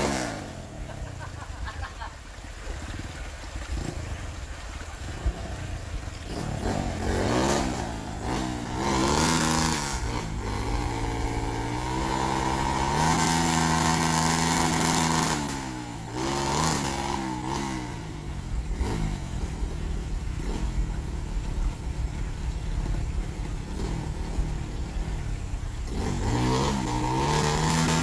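Dirt bike engine revving up and down over and over as the throttle is worked, its pitch rising and falling in waves and held high for a couple of seconds about halfway through.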